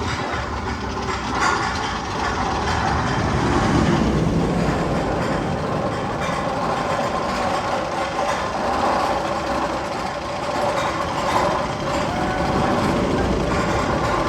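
A continuous rumbling, train-like mechanical noise with a faint steady hum through it, one of the sound effects played in the Magnum XL-200 roller coaster's tunnel.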